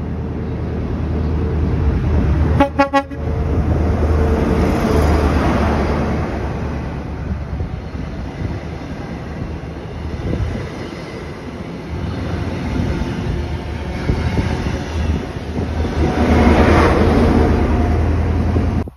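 Train passing close by with a steady low rumble and running noise, sounding a short horn toot about three seconds in. The noise swells again near the end and then cuts off suddenly.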